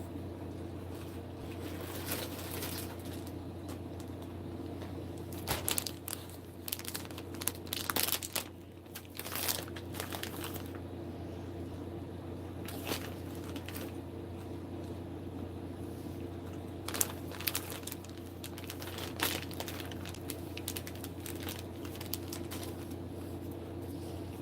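Crinkling and rustling of handled packaging in several short bursts, over a steady low hum.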